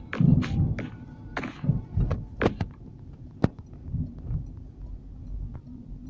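A run of irregular knocks and clicks, with heavier low thuds in the first couple of seconds, as of hard objects being knocked and handled.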